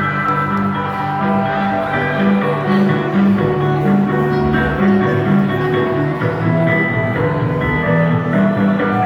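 Live band playing an instrumental passage of a song, with a repeating bass line under guitar.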